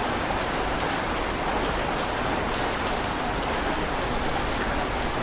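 Heavy rain falling steadily: an even, unbroken patter of many drops.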